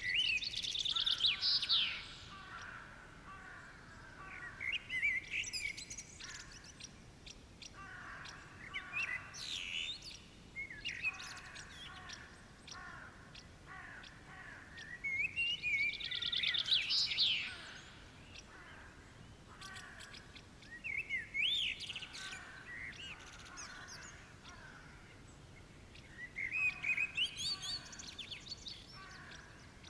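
Birds singing and calling in a chorus, with a loud, rapid song phrase near the start and again about halfway through, and quieter calls in between.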